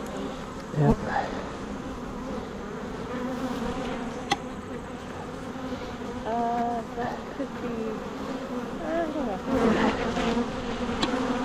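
Honeybees buzzing in numbers around an open hive, with single bees flying close past and bending in pitch as they go. A sharp thump about a second in.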